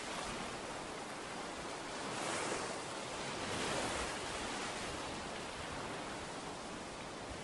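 Ocean waves breaking and washing up a beach as a steady hiss of surf, swelling louder twice, at about two and about three and a half seconds in.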